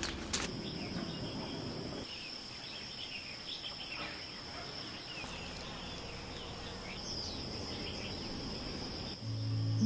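Summer forest ambience: insects keep up a steady high-pitched trill while birds give scattered short chirps. A click comes just after the start, and music comes in near the end.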